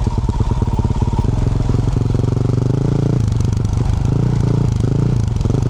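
A 2024 Yamaha YZ450F's single-cylinder four-stroke engine, fitted with a Yoshimura RS-12 exhaust, running under throttle. The revs climb for a couple of seconds, drop sharply about three seconds in, then rise and fall again with the throttle.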